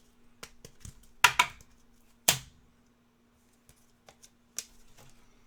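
Trading cards being handled, with a few short, sharp snaps and smaller ticks of card stock over a faint steady hum.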